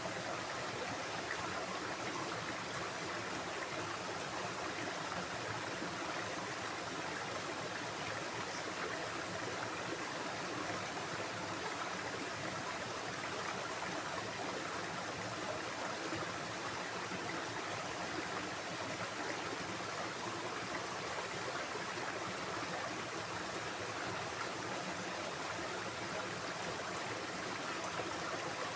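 Running water, a steady unbroken rush like a stream flowing.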